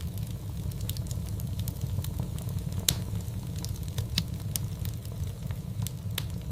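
Wood fire in a fireplace crackling, with irregular sharp pops over a steady low rumble; the strongest pops come about three and four seconds in.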